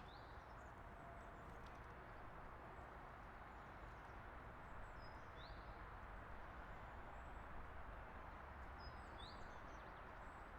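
Faint bird chirps, short high rising notes heard about three times, over a steady low background rumble.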